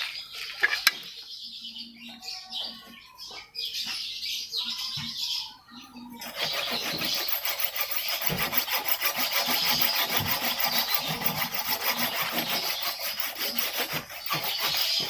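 Mini saw cutting wood: a few irregular scrapes and knocks, then from about six seconds in a steady, fast, rasping sawing.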